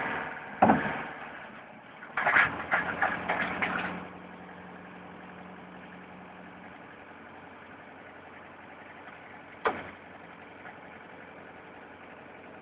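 Forklift truck engine idling steadily, with a loud clunk about half a second in, a run of rattling knocks from about two to four seconds, and one sharp knock near ten seconds.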